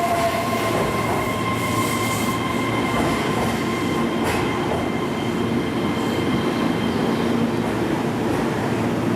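Keihan 3000 series electric train running along the track: a steady rumble of wheels and running gear, with thin high tones ringing over it throughout.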